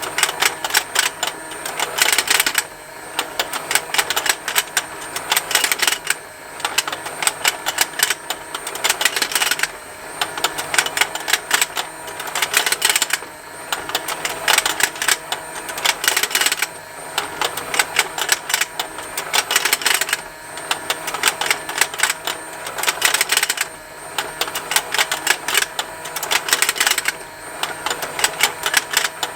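Plastic fishing lake toy running: its motor and rotating plastic parts give a continuous rapid plastic ticking, with a denser, louder burst of clicking about every three and a half seconds.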